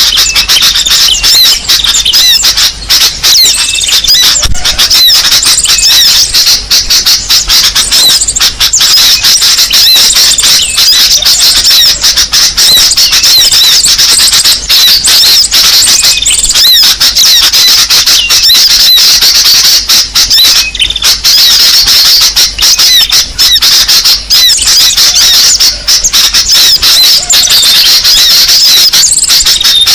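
Loud, dense chorus of high-pitched small-bird chirps and squeaks, many calls overlapping without a pause. It is a bird-lure (pikat) call recording meant to draw in small songbirds.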